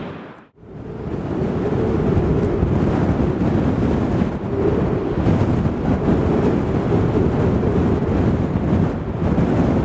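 Strong wind buffeting the microphone: a loud, steady rumble that drops out briefly about half a second in, then comes back.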